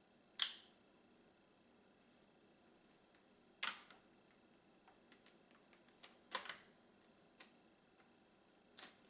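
Sharp plastic clicks and clacks from handling the parts of a Roomba robot vacuum: four louder clicks a few seconds apart, with fainter ticks between them.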